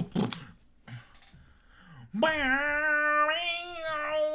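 Beatboxed vocal percussion ends about half a second in. About two seconds in, a singer begins one long wordless note, held steady and lifting slightly in pitch about halfway through.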